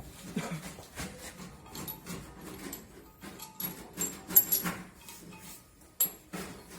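Irregular metallic clinks and knocks of washing-machine parts being handled and fitted while the counterweight is assembled, the sharpest about four and a half seconds in and another near the end.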